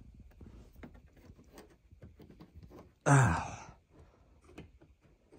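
A man's loud sigh, falling in pitch, about three seconds in, amid faint clicks and light knocks of hands handling car trim parts.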